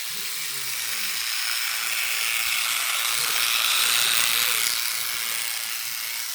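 Small battery-powered motors of Tomy Motor Road and Rail toy trains whirring as the engines run along plastic track, with Thomas pushing Oliver, whose own motor is weak. The whir grows louder to a peak about four seconds in as the trains pass close, then fades.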